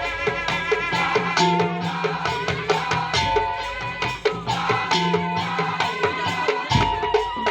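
Madurese ul-daul percussion ensemble playing traditional music: a fast, even beat of struck percussion under a melody of held and stepping notes.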